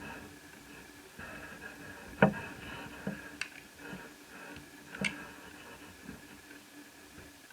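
A few light clicks and taps of small laptop parts being handled, the loudest about two seconds in and another sharp one about five seconds in.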